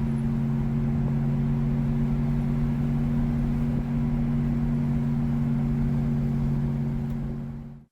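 A vehicle engine running at a steady speed with an even hum, fading out just before the end.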